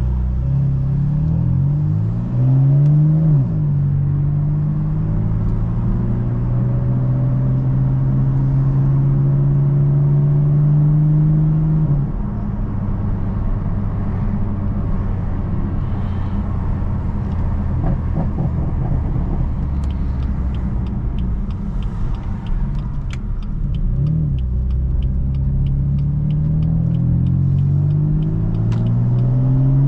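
BMW F82 M4's S55 twin-turbo straight-six pulling under acceleration, then holding a steady cruise. The engine note climbs early on, holds until it drops off about twelve seconds in, then rises again in two pulls over the last several seconds.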